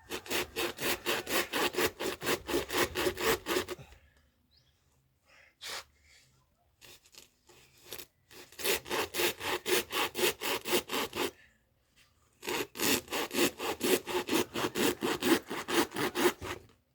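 Rapid back-and-forth sawing strokes cutting into a coconut, about five strokes a second, in three bouts with short pauses between.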